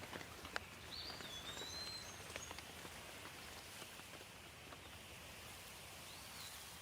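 Steady rain falling, with individual drops ticking sharply in the first few seconds. A bird gives short whistled calls about a second in and again near the end.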